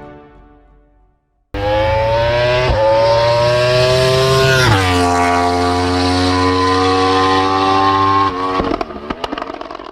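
Car engine accelerating hard, cutting in suddenly about a second and a half in. Its note climbs, drops sharply at a gear change partway through, holds steady, then dies away near the end with a few clicks.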